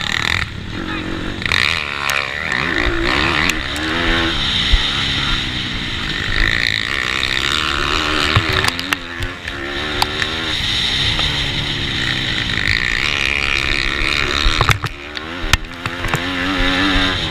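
Single-cylinder four-stroke pitbike engine racing: a 160cc GPcube lite engine in a Bucci F15, revving up and dropping back again and again as it is shifted through the gears and run between corners, with other pitbike engines close by and a few sharp clicks.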